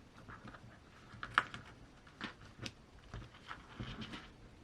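Irregular faint clicks and taps of small RC truck parts, such as screws and the axle, being handled during assembly.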